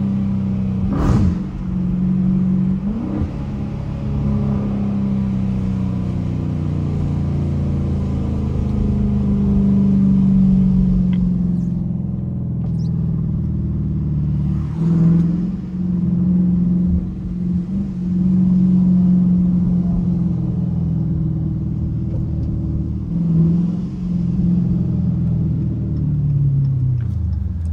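Dodge Challenger R/T's 5.7-litre HEMI V8 heard from inside the cabin, revved and accelerated hard in several waves, its pitch rising and falling, with a few short sharp louder bursts from the exhaust. Near the end the pitch falls as the car comes off the throttle.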